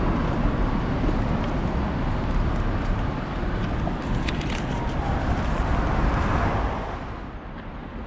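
Road traffic passing close by, a steady rushing noise that fades about seven seconds in.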